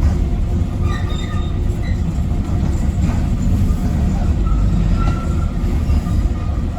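Docklands Light Railway train running along the track, heard from inside the front car: a steady low rumble with a faint high wheel squeal partway through.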